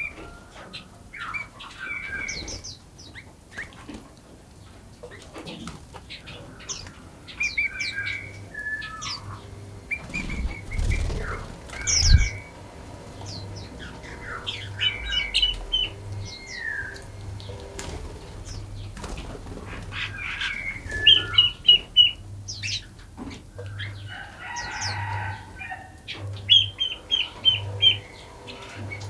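Forest songbirds chirping and singing in many short calls and rapid trills, several birds overlapping. A couple of low thumps come about eleven and twelve seconds in, and a harsher, rasping call near the end.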